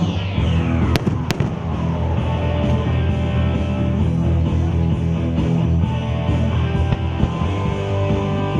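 Music playing over a fireworks display, with two sharp firework bangs about a second in, close together.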